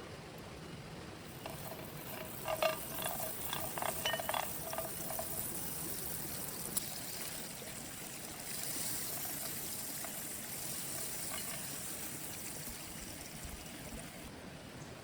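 Steady heavy rain falling, with a brief cluster of sharp drips and knocks about two to five seconds in.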